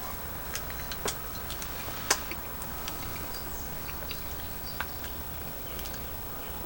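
Sparse small clicks and crackles of crushed sour candy being tipped from its torn packet and eaten.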